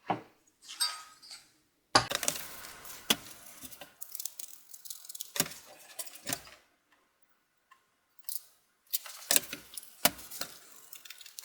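A microfiber cloth rubbing and wiping a metal CPU heatsink to clean off old thermal paste, in irregular bursts with light metallic clicks and clinks as the heatsink is handled, and a quiet pause in the middle.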